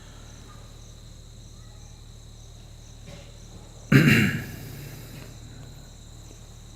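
Crickets chirping steadily, a continuous high trill. About four seconds in, a short loud burst of sound cuts in and fades within about half a second.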